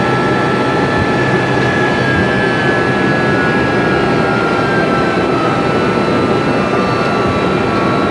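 Airbus A300B4 jet engines idling, heard inside the flight deck: a steady rumble and hiss with a couple of steady whining tones, one sliding slightly lower in pitch.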